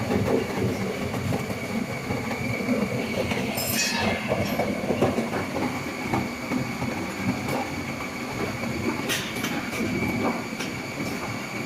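Industrial juice extractor machine running, with a steady mechanical rumble and clatter under a constant high whine, and two short hissing bursts, one about a third of the way in and one near the end.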